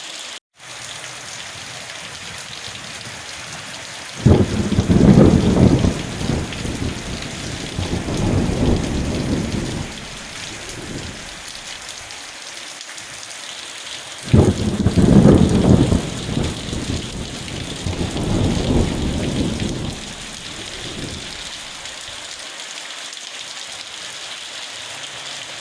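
Steady rain falling, with two rolls of thunder that start suddenly about four and fourteen seconds in, each rumbling in waves for about six seconds before dying back to the rain. The sound cuts out for a moment right at the start.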